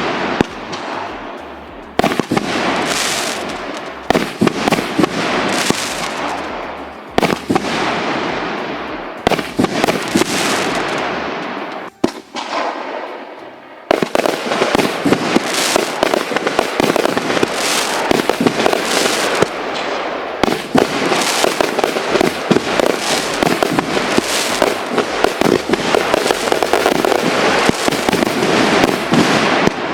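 A 110-shot, 1.75-inch firework cake firing. For the first half, single shots burst every second or two, each fading out before the next. From about halfway it turns into a fast, dense barrage of overlapping shots.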